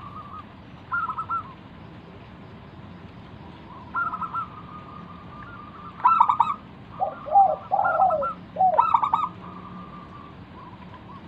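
Zebra dove (perkutut) cooing: several separate phrases of quick, pulsed coo notes. The middle phrase carries a run of lower, falling notes.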